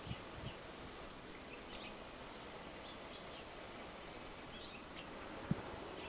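Steady outdoor hiss with scattered faint, short, high chirps of small birds, and a few soft low thumps near the start and again about five and a half seconds in.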